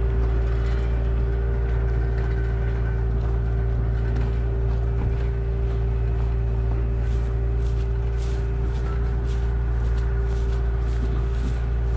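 A vehicle engine idling steadily, with faint light ticks in the second half.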